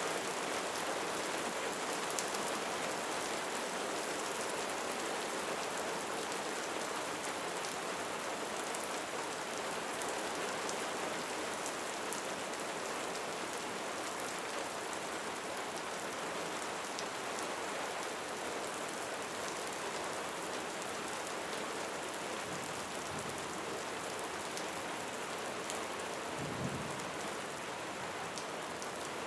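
Steady rain falling on a roof, an even hiss with many small drop ticks. A brief low rumble sounds near the end.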